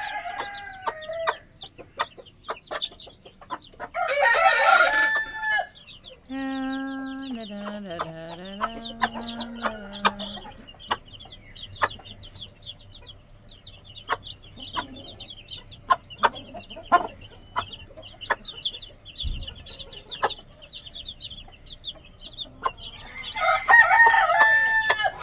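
Chickens clucking and calling while chicks peep steadily, with loud squawks about four seconds in and again near the end and a long, drawn-out call just after the first squawks. A scatter of short sharp taps runs under the calls.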